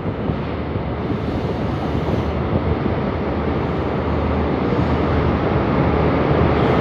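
InterCity 125 High Speed Train pulling out, a steady diesel rumble and rail noise growing louder as the rear Class 43 diesel power car draws near.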